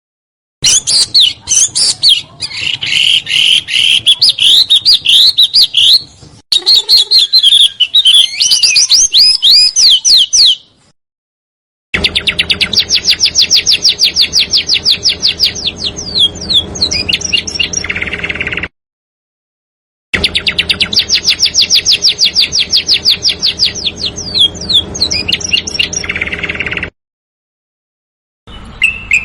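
Edited recording of small songbird song: quick high chirps and swooping notes broken by sudden silences, then a very fast high trill that ends in a few falling notes and a rasping buzz, repeated the same way after a pause.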